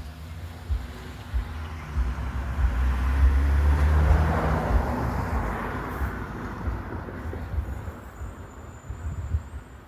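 A road vehicle driving past, its engine rumble and tyre noise swelling to a peak three to four seconds in, then fading away.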